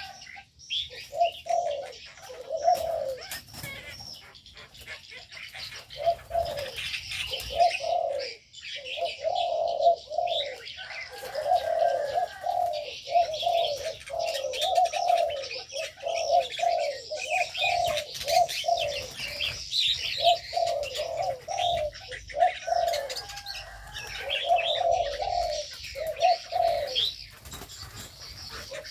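Aviary birds calling: a long run of short, low, repeated cooing notes, with higher chirping over them throughout.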